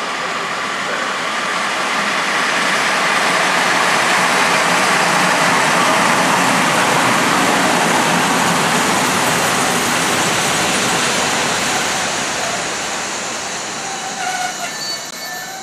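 Train running on the rails, a steady rushing noise that builds to a peak about halfway through and fades near the end.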